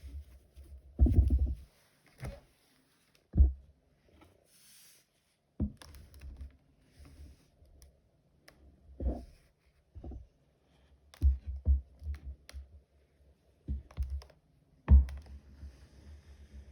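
Irregular dull thuds and knocks with a few light clicks, from an iron and fabric being handled on an ironing board while a folded strip of fabric is pressed. A short cluster of thuds comes about a second in.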